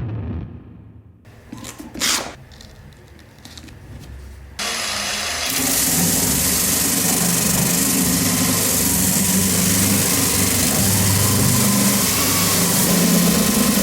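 A few light knocks, then an electric power tool switched on about four and a half seconds in and running steadily with a hissing whir over a low hum.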